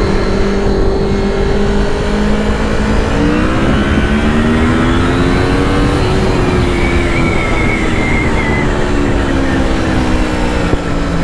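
Honda VFR750's V4 engine running at road speed over wind rush. From about three seconds in the revs climb hard for a few seconds, as in an overtaking acceleration, then ease off slowly.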